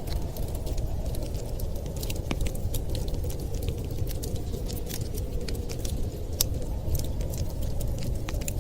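Crackling fire: frequent irregular sharp pops and snaps over a steady low rushing noise, the wind and fire of a snowstorm-and-fireplace ambience.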